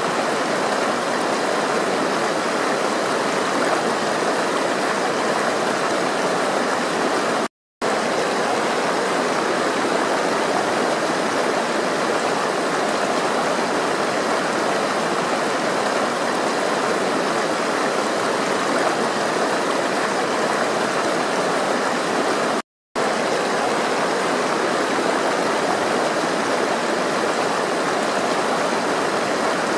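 Flowing water rushing steadily with an even hiss. The sound cuts out to silence for a split second twice, about 8 and 23 seconds in.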